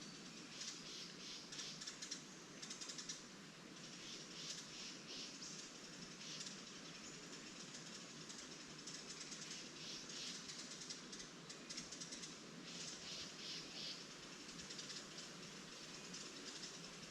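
Small songbirds singing in repeated spells of rapid, high-pitched chattering trills, over a steady low rustle of leaves in the wind.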